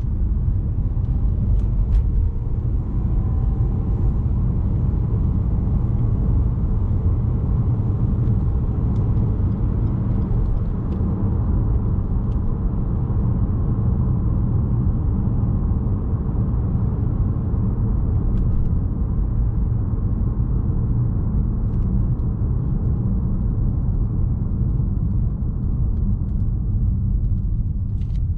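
Steady low rumble of a 2017 Lexus RX 200t on the move, the road and engine noise of its 2.0-litre turbocharged four-cylinder 8AR-FTS, with a few light clicks.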